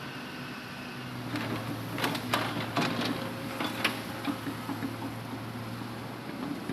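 Hitachi Zaxis 200-5G excavator's diesel engine running steadily, with a cluster of sharp knocks and clanks from about one and a half to four seconds in as logs are handled.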